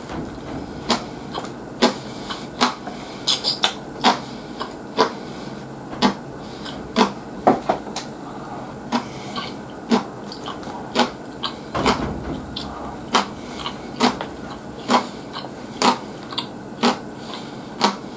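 Close-miked eating: a steady run of short, sharp mouth clicks from chewing, about one or two a second, with wooden chopsticks picking food from an aluminium bento tray.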